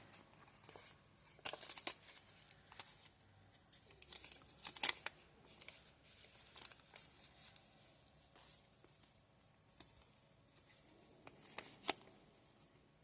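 Soft paper rustling and handling noise as the pages, tags and inserts of a handmade paper journal are turned and moved, with scattered sharper clicks and taps, the strongest about five seconds in.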